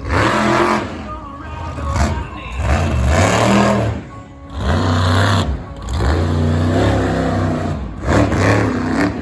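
Monster truck engine revving hard in repeated bursts, its pitch climbing and falling, with sharp drops off the throttle around four and a half and five and a half seconds in.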